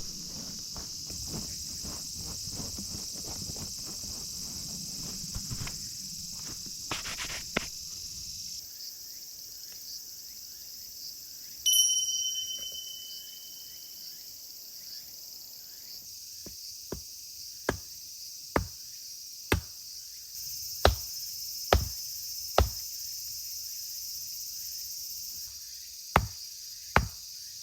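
Insects chirring steadily in the woods, with rustling and small clicks during the first eight seconds, a single ringing ping near the middle, then sharp knocks about once a second, with a short pause near the end.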